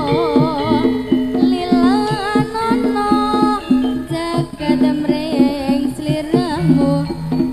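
Live jaranan accompaniment music from a Javanese ensemble: frequent drum strokes under held gong-like tones, with a wavering, ornamented melody line on top.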